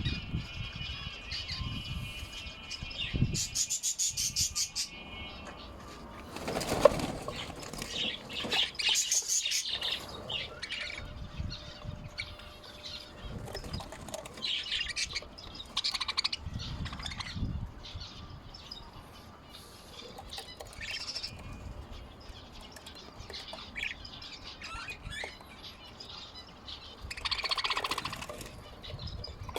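Lovebirds and finches chirping and calling over one another, with wing flutters now and then.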